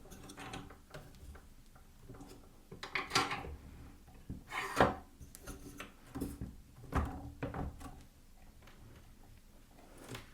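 Handling noise from adjusting a bench pillar drill: a series of clunks, knocks and scrapes as its fittings are moved and tightened, the loudest knock about halfway through, with small clicks between.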